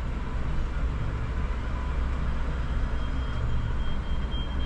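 Steady low rumble of a car driving, road and engine noise. About three seconds in, a faint high beeping starts, pulsing on and off.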